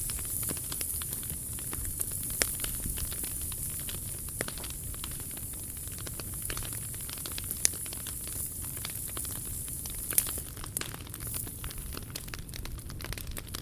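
Wood fire burning in a POMOLY T-Brick Ultra: a steady hiss with scattered crackles and a few sharp pops.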